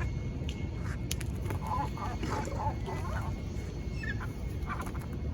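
Seagulls calling: scattered short squawks, a cluster of them a second or two in and a few more near the end, over a steady low rumble.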